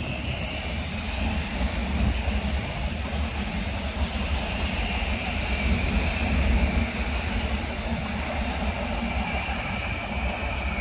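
Končar HŽ series 6112 electric multiple units passing at close range: a steady low rumble of wheels on rail, with a high whine held above it.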